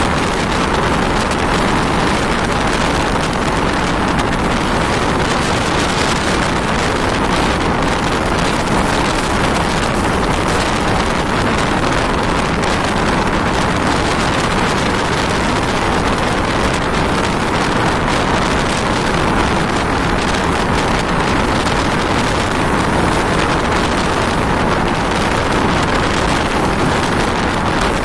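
Mumbai suburban electric local train running at speed: a steady, loud rush of wheel and track noise with no clear rhythm, mixed with wind on the microphone.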